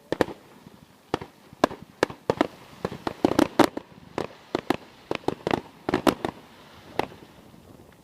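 Fireworks going off in an irregular string of sharp bangs and cracks, bunched into rapid clusters a few seconds in and again near six seconds.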